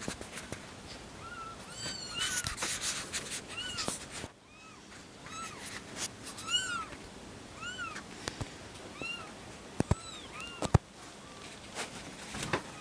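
Newborn kittens meowing: a string of short, high-pitched calls, each rising and falling in pitch, from several kittens at once. A couple of sharp clicks are heard near the middle.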